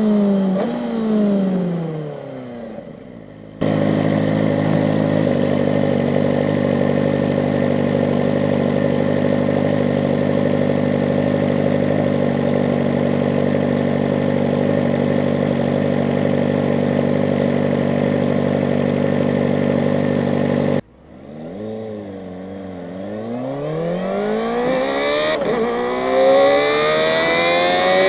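Kawasaki ZX-4RR's 399 cc inline-four engine slowing down with a falling pitch, then idling steadily for about seventeen seconds. About three quarters of the way through it pulls away, its pitch rising in sweeps as it accelerates through the gears.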